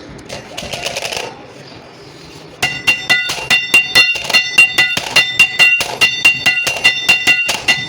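Hammer striking steel in a fast, even run of blows, about four a second, each ringing with a bright metallic tone. The hammering starts a few seconds in, after some lighter knocks.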